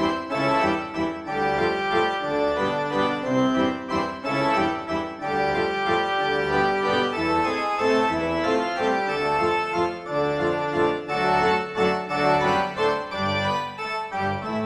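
Background music: a keyboard tune with an organ-like sound, notes changing steadily throughout, fading down near the end.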